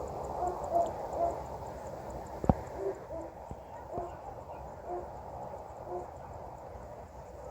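Owl hooting in short, repeated hoots about once a second, alternating between a higher and a lower note. A sharp click about two and a half seconds in.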